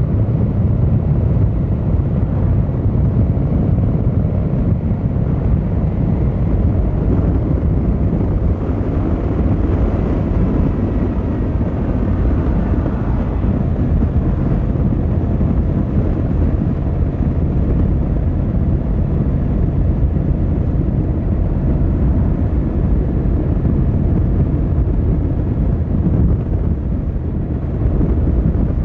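Yamaha XVZ1300 Royal Star's V4 engine and exhaust running steadily under way, with road and wind noise.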